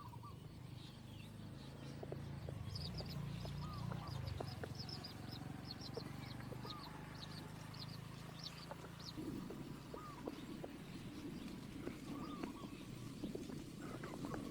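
Birds chirping and calling: a run of short, high chirps, with lower hooked calls every second or two, over a low rumble.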